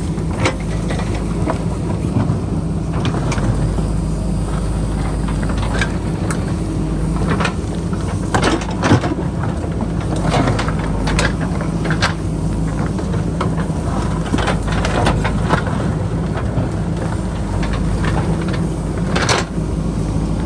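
JCB backhoe loader's diesel engine running steadily under load, with repeated sharp knocks and clatter of the bucket working against rock and boulders.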